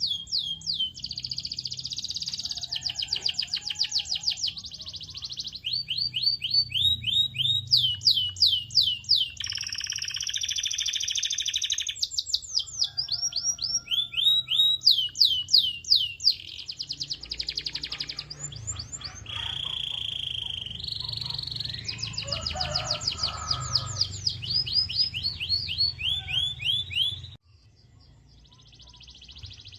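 Domestic canary singing: long runs of rapid, repeated sweeping notes (trills), switching to a new trill pattern every few seconds, over a low steady hum. The song breaks off suddenly near the end.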